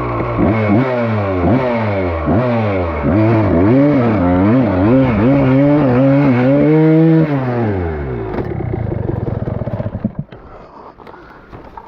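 Dirt bike engine being revved in quick repeated blips, the pitch rising and falling about twice a second as the rider works the throttle on a steep climb. About seven seconds in the revs fall away to a low rapid chug, which fades out about ten seconds in, leaving light scraping and clicking.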